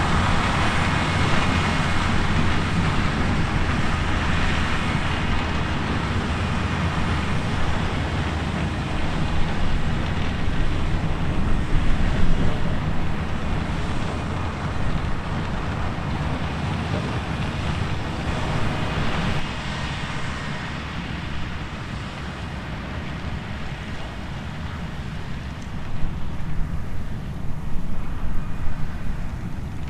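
Heavy diesel beet-harvest machinery running steadily, with louder, uneven knocks and peaks near the end.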